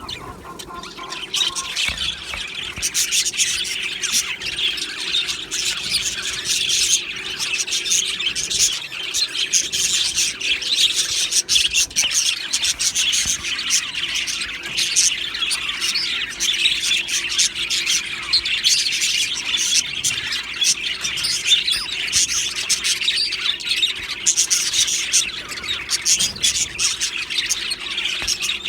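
A flock of budgerigars chirping, warbling and squawking together, a dense unbroken chatter of many overlapping calls.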